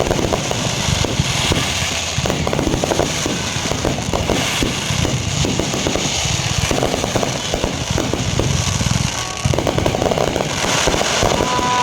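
Aerial fireworks going off in dense crackling volleys of many small pops, which come in waves every second or two over a steady low booming.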